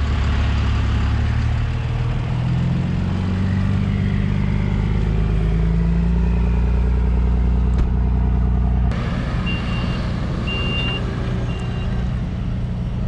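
Heavy truck's diesel engine running loudly, its pitch rising and falling over the first several seconds. The sound changes abruptly about nine seconds in: an engine keeps running with a few short, high beeps.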